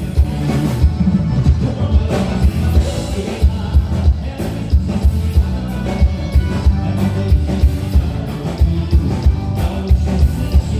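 Live band playing a gaúcho dance song, with a steady drum beat under strong bass.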